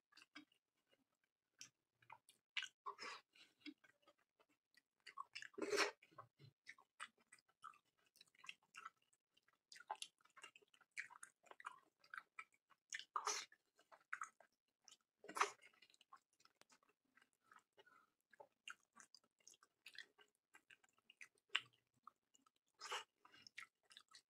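Chewing and mouth sounds of a person eating curry and fried rice by hand: a steady run of small wet clicks and smacks, with a few louder smacks about 6, 13, 15 and 23 seconds in.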